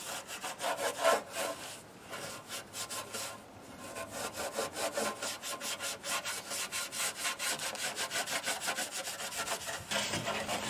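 Fast back-and-forth strokes of a hand tool scraping, about six strokes a second, easing off briefly around three seconds in before picking up again.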